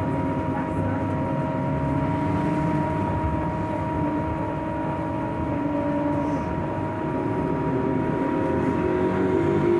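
Interior noise of a Scania 6x2 electric trolleybus under way: a steady electric whine over a low road rumble. Over the last few seconds a second whine rises in pitch as the bus gathers speed.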